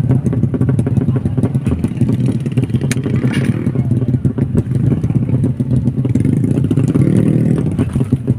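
Motorcycle engine running with a loud exhaust, its revs lifting briefly near the end.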